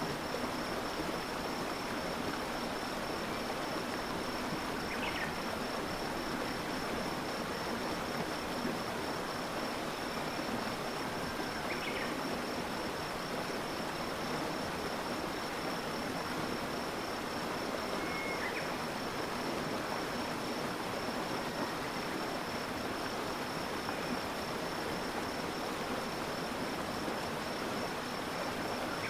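Stream water flowing steadily, with a constant high-pitched insect trill behind it and a few short bird chirps about 5, 12 and 18 seconds in.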